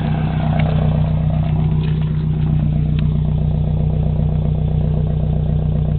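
Nissan KA24DE 2.4-litre inline-four idling steadily through a dual 3-inch straight-pipe catback with the stock catalytic converter, a low, growly exhaust note.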